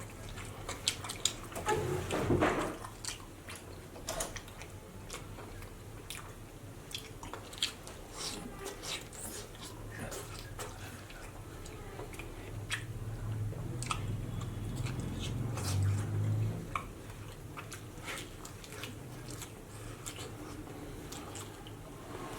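Close-up eating sounds of a mukbang meal of rice and pork curry: chewing and biting, with many short wet mouth clicks and crunches. A low hum runs for a few seconds past the middle.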